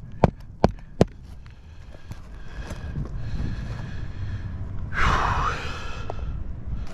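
Hammer striking a roofing nail through a shingle: three quick, sharp strikes in the first second. About five seconds in comes a short rushing noise.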